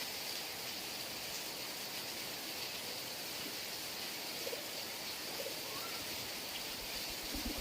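Heavy rain falling, a steady hiss, with a few faint low thumps near the end.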